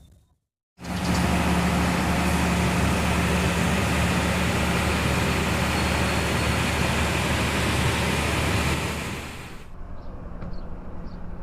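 Passenger train running, a steady rumble with a low hum underneath; it starts abruptly after a short cut and falls away near the end.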